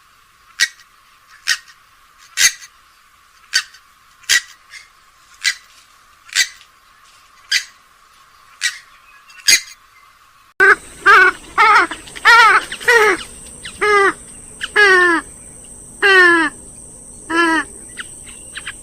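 Recorded calls of rails (swamphen or moorhen family). First come sharp, short calls about once a second. About halfway through, a different recording cuts in, with louder, harsh calls that slide down in pitch, repeated about once a second over a steady hiss.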